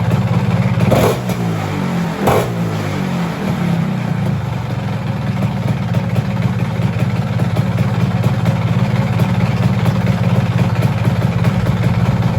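Vespa PX200's single-cylinder two-stroke engine idling through a JL Racing expansion exhaust. The throttle is blipped twice, about a second apart, near the start, and then the engine settles back to a steady idle.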